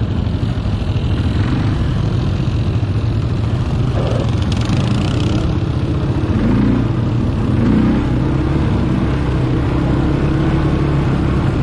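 ATV engine running steadily, revving up briefly twice around the middle.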